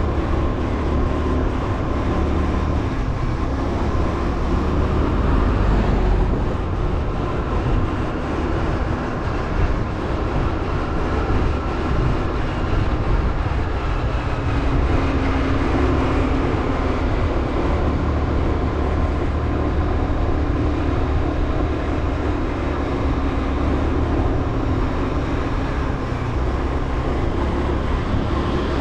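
Motorbike engine running steadily while riding, mixed with a heavy low rumble of wind and road noise on the microphone.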